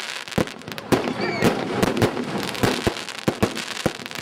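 Fireworks going off in quick succession: sharp bangs and reports, several a second at uneven spacing, over a continuous crackle.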